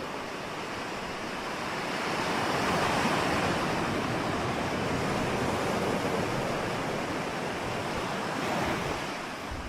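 Ocean waves breaking and washing on a shore: a steady rush of surf that swells about two seconds in and eases off near the end.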